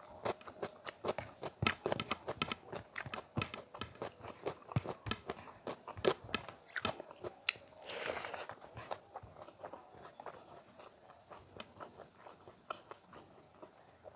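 Close-up mouth sounds of eating rice and cauliflower curry by hand: wet chewing and lip smacking with many short clicks, thickest in the first half. A brief rougher rustle comes about eight seconds in.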